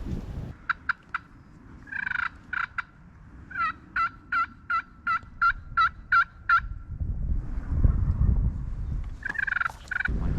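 Turkey calling: a few short sharp notes, then a series of about ten evenly spaced yelps, and a brief raspy call near the end.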